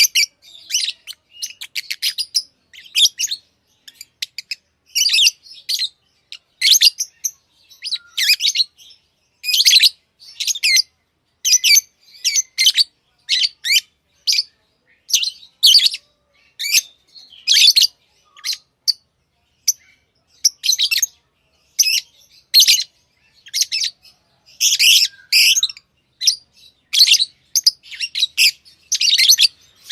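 Lovebirds chirping: a continuous string of short, high-pitched chirps and squeaky calls, about one or two a second, without a real pause.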